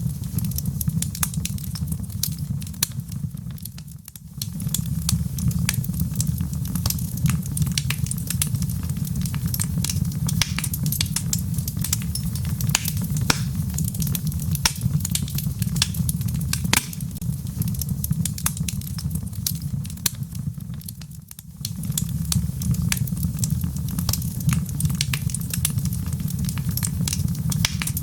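Wood fire in a fireplace crackling and popping with sharp snaps over a steady low rumble of the flames. The sound dips briefly twice, about four seconds in and again about twenty-one seconds in, before coming back.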